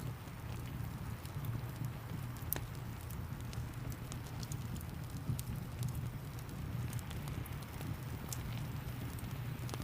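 Wood fire crackling in a fireplace, with scattered sharp pops over a steady low rumble and a soft hiss of rain.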